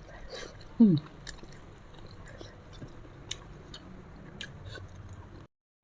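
Close-miked mouth sounds of someone chewing food, with small wet clicks and smacks. About a second in comes a brief falling hum, the loudest sound here. The audio cuts out abruptly just before the end.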